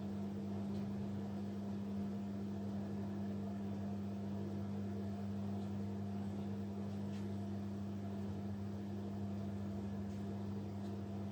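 Kunft washing machine running with a steady low hum that stays unchanged throughout.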